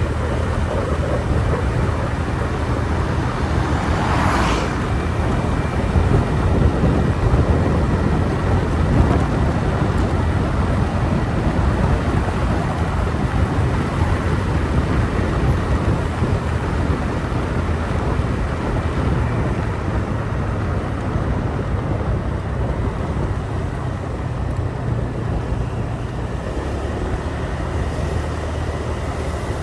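Motorbike engine running steadily during a street ride, with road and traffic noise around it. A brief louder hiss comes about four seconds in.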